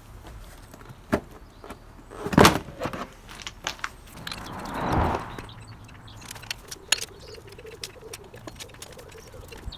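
Metal tools clinking and clattering on a diesel engine as its EGR valve is unbolted, with one loud clank between two and three seconds in. A passing vehicle's whoosh rises and fades about halfway through.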